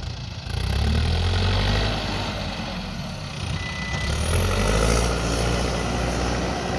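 Backhoe loader's diesel engine working, its pitch rising twice as it takes load, with a single short high beep just before the second rise.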